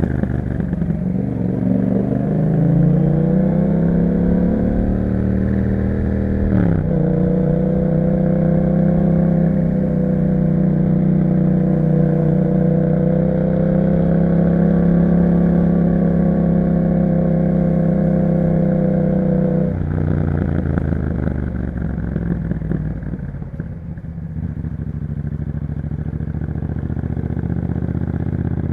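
2021 Yamaha MT-07's parallel-twin engine through an Akrapovic exhaust, riding under load. The revs climb over the first few seconds, dip briefly at a gear change about seven seconds in, then hold steady. About twenty seconds in the revs drop suddenly, and the engine runs on at lower revs, rising slightly near the end.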